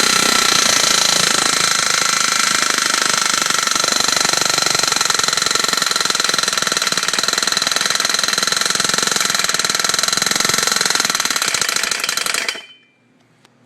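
49cc engine running with its gearbox and clutch removed, a sharp, high-pitched ringing tone riding over the engine noise, until it shuts off suddenly about twelve seconds in. The sharp sound is still there with the gearbox and clutch off, so it comes from the engine itself.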